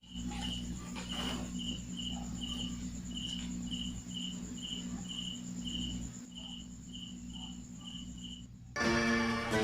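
Cricket chirping steadily, about two short high chirps a second, over a low steady hum. Music starts near the end.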